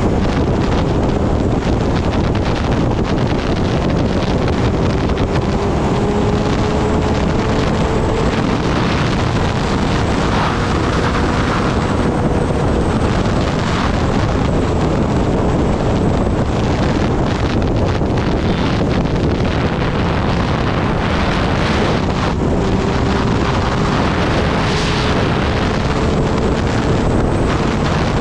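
Heavy wind rushing over the microphone of a motorcycle at speed. Beneath it, the Kawasaki ZX-10R's inline-four engine is a faint, steady note that rises slowly in pitch a couple of times.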